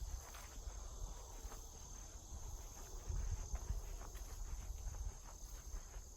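Insects buzzing steadily in a high, even drone, with footsteps crunching on the forest floor about twice a second.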